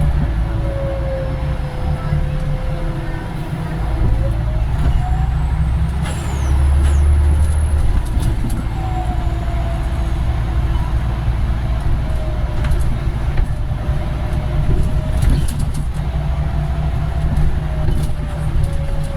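Scania Omnidekka double-decker bus under way, heard from on board. The diesel engine drones steadily, with a louder stretch partway through. A transmission whine rises and falls several times as the bus speeds up and slows, over light rattles from the body.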